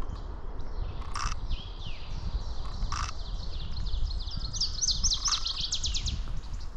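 A songbird singing a quick run of high, down-slurred notes that speeds up into a trill about four seconds in. There are two short, sharp clicks before it.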